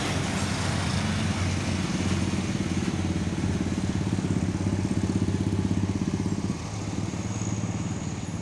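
A vehicle engine running steadily, a low pulsing note at an even pitch. Its sound drops and becomes thinner about two-thirds of the way through.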